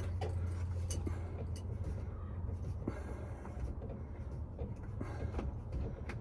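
A low steady rumble, with a few faint clicks and taps of small parts being handled.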